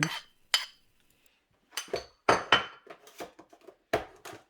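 Utensil clinking and scraping against a dish in short, irregular strokes while raw onions are added to an instant noodle bowl.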